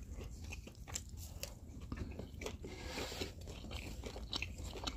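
Close-miked biting and chewing of pan-fried pork potstickers and green onion pancake, made up of irregular soft crunches and small mouth clicks.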